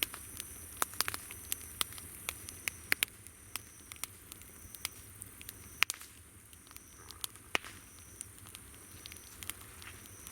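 Campfire crackling, with irregular sharp pops and snaps from the burning wood. Behind it runs a steady, high-pitched chorus of summer insects, with a trill that repeats in short phrases about a second long.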